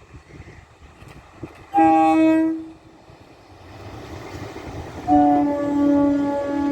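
Electric multiple-unit local train sounding its horn: a short blast about two seconds in, then a longer blast near the end, over the growing rumble of the train.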